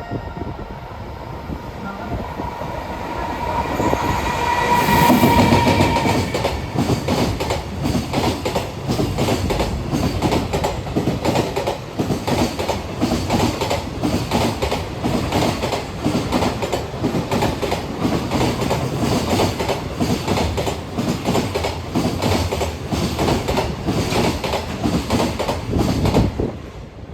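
Loaded container wagons of a freight train rolling past, their wheels clicking over the rail joints in a brisk, steady rhythm that stops abruptly near the end as the last wagon goes by. A steady whine sounds over the first few seconds.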